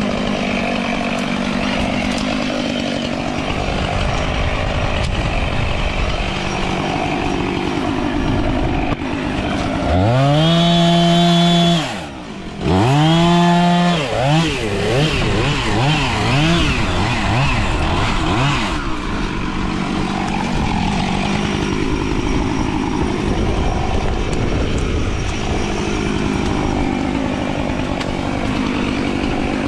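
Gas chainsaw running throughout. It is opened up to full throttle twice, about ten and thirteen seconds in, then blipped up and down several times before settling back.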